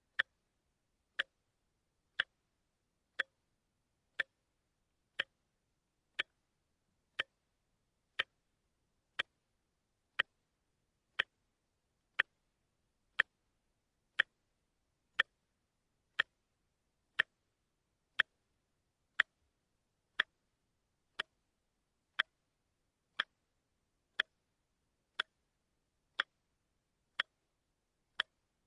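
Watch ticking steadily, one sharp tick every second, with silence between ticks.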